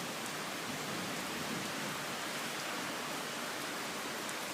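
Heavy rain falling steadily: an even hiss with no thunder.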